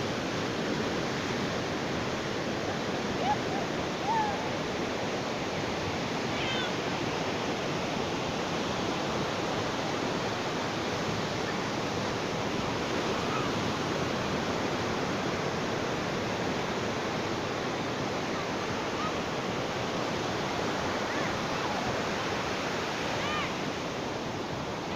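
Ocean surf washing on a beach as a steady, unbroken rush of waves. A few brief high-pitched calls rise above it now and then.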